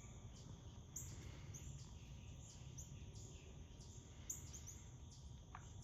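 Faint outdoor ambience: short, high bird chirps repeating every half second to a second over a low, steady background rumble.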